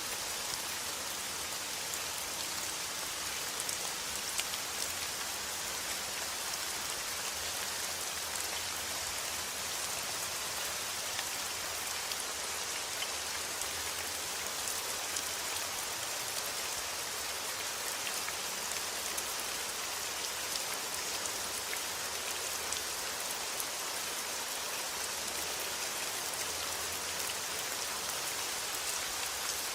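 Steady rain falling: an even, dense hiss of rain on a surface with faint scattered drop ticks.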